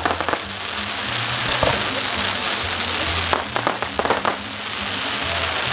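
Fireworks crackling in a dense hiss, with clusters of sharp pops near the start, about a second and a half in, and again around three and a half to four seconds in, over music with a bass line.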